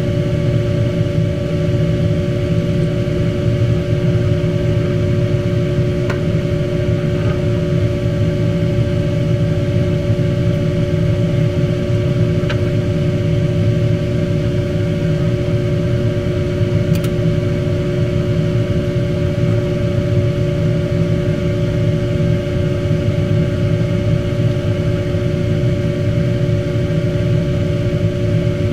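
Steady mechanical hum with two constant tones over a low rumble, unchanging throughout, with a few faint ticks.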